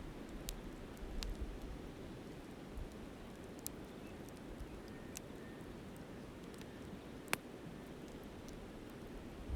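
Wood fire crackling, with scattered sharp pops and one loud pop about seven seconds in, over a steady rush of flowing river water. Low wind rumble on the microphone comes and goes near the start.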